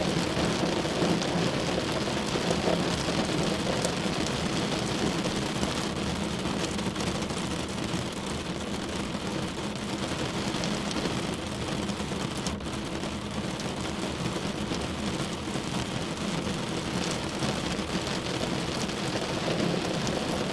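Heavy rain drumming on a car, a steady dense patter of drops on the body.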